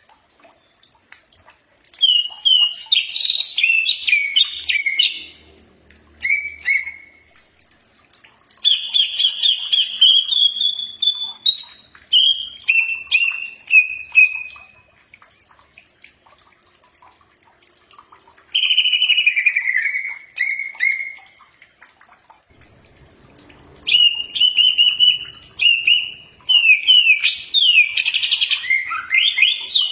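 Cucak ijo (green leafbird) singing in phrases of varied whistles and fast trills. About five phrases of a few seconds each are separated by short pauses.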